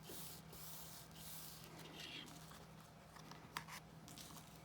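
Faint rubbing of paper as the fold of a cardstock card is burnished by hand, with a light click about three and a half seconds in.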